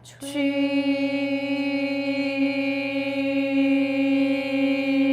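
A single voice holding one long, steady sung tone at an unchanging pitch: the traditional Chinese medicine healing sound for the kidney, chanted as a sustained vibrating note.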